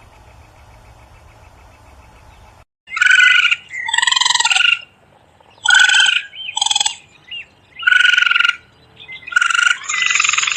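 A faint steady background cuts off a few seconds in, then a run of about seven loud, harsh animal calls, each under a second long.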